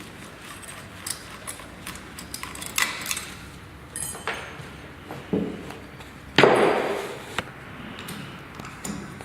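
Metal tools and parts clinking and knocking while a deep-well submersible pump is taken apart: a series of sharp clicks, with one louder clank about six and a half seconds in.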